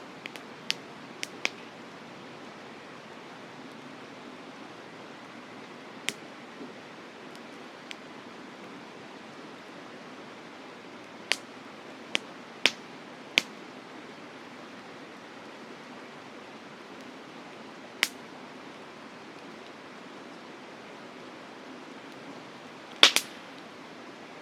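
Wood campfire crackling, with sharp, irregular pops every few seconds and the loudest, a quick double pop, near the end, over the steady rush of a mountain river.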